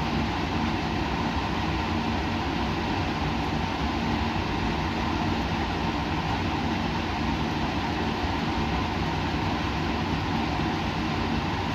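Steady laboratory machine drone with a low hum, unchanging throughout.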